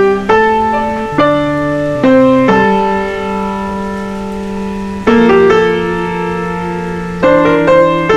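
Background piano music: slow chords struck every second or so and left to ring, with a few longer held chords.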